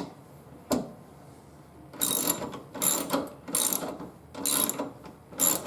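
Hand ratchet clicking in about five short bursts, one stroke after another, driving a sheet-metal screw through a plastic liner panel.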